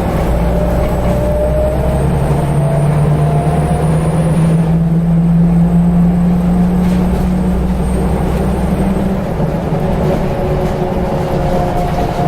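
Scania L94UB bus under way, its engine drone and ZF automatic gearbox whine rising in pitch as it picks up speed, then the engine note dropping away about nine seconds in as it eases off, with the gearbox whine returning near the end.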